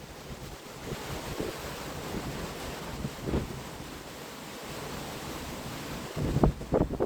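Wind blowing hard across the microphone over a steady rush of surf. A stronger gust rumbles in near the end.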